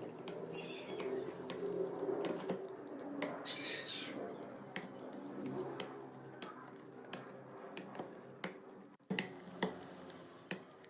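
Small metal parts and hand tools being handled: irregular clicks and light taps over a low steady hum.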